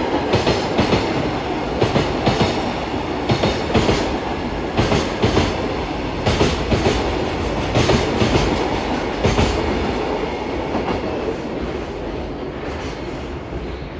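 Container freight wagons rolling past over rail joints, the wheels clattering in repeated clusters of clicks over a steady rumble. The sound fades away over the last few seconds as the train draws off.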